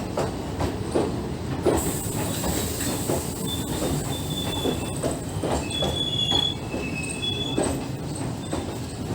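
Moving passenger train: a steady rumble of wheels on rail with repeated knocks over the joints. Thin, high wheel squeals come and go through the middle few seconds.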